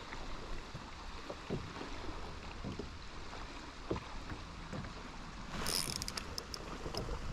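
Water lapping and small knocks around a fishing kayak, then a burst of crackling splashing starting a little over five seconds in as a hooked rock bass is brought up to the surface.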